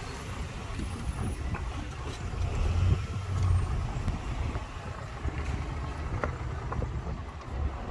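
Road traffic, a steady low rumble of cars and heavier vehicles going by on a city avenue.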